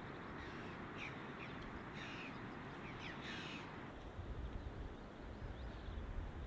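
A few short bird calls in quick succession during the first half, over a faint steady background hiss.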